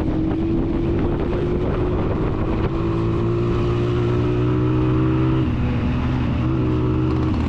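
Honda 125 motorcycle's single-cylinder four-stroke engine running under way, with a steady note that drops about five and a half seconds in and picks up again a second later.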